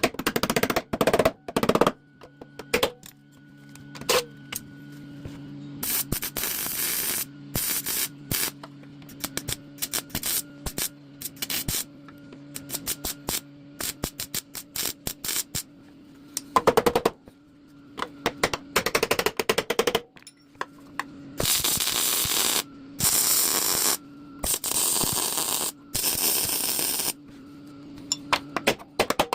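Welding arc crackling in short bursts while plug-welding sheet-metal panels through drilled holes, with sharp clicks between the bursts. The longest run of welding comes near the end.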